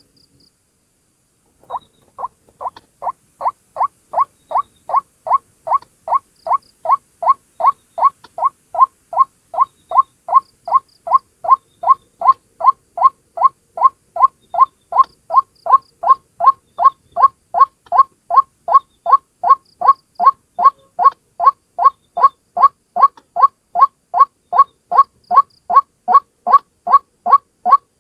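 A single white-breasted waterhen calling its repeated 'ruak' note, about three a second without pause, starting about two seconds in, growing louder over the first few seconds and then holding steady.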